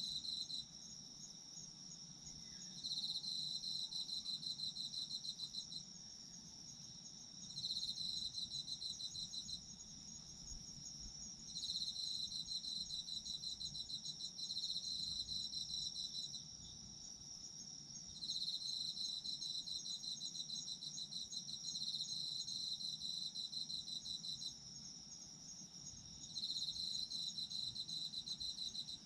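Autumn insects singing at night: a continuous high, steady trill, with a second insect's pulsed chirping that comes in bouts of a few seconds separated by short pauses.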